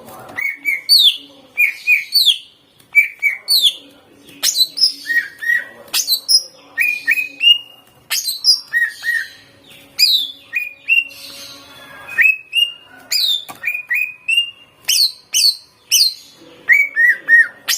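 A cucak ijo (green leafbird) singing loudly in rapid, varied phrases of short whistles and chirps, many sliding down in pitch, broken by sharp clicks. The song is packed with mimicked phrases of other birds (isian).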